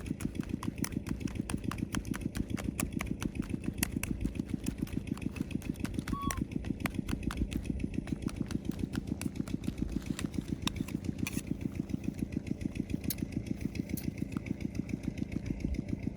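A small engine running steadily with an even, rapid putter of about eight beats a second. Faint light clicks are scattered over it.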